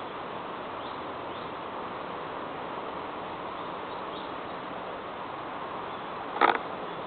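Birds calling over a steady background hiss: a few faint, brief high chirps, then one short, loud call near the end.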